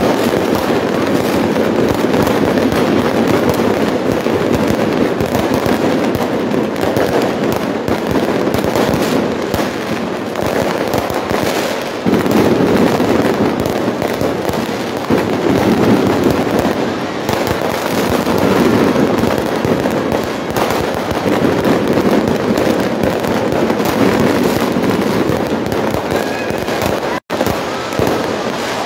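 Aerial fireworks going off in a dense, continuous barrage of bangs and crackles, the sound cutting out for an instant near the end.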